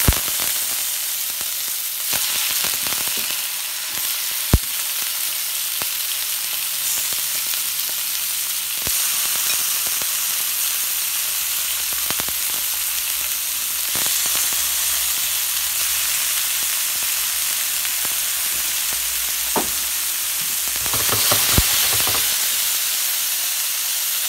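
Chicken breast pieces and onion slices sizzling steadily as they fry in hot oil in a pan, stirred with a wooden spoon, with a few sharp knocks now and then.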